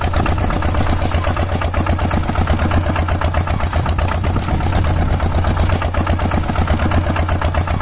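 Engine running steadily with a fast, even chugging and a strong low hum.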